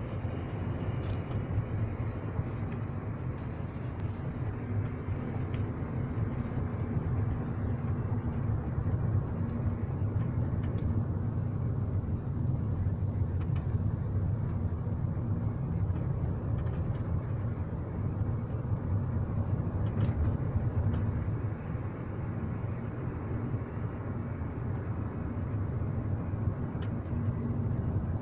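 Car driving with a steady road rumble and a sharp, clear knock, 'tyk tyk', now and then from the right side. The knock is still there after the brake caliper brackets and guide pins were replaced under warranty.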